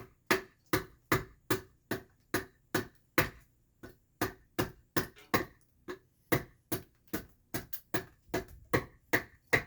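Hand adze chopping into alderwood, cutting chips out of the hollowed back of a carved mask: a steady run of sharp strikes about two to three a second, with a short pause a little before the middle.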